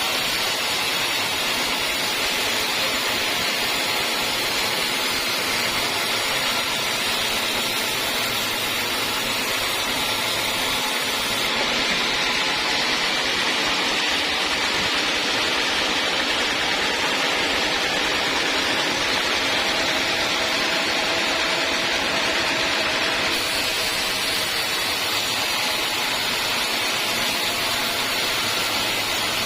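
Sawmill saw running steadily while cutting teak wood, a continuous hiss of machine and blade. The sound changes slightly about twelve seconds in and again near twenty-three seconds.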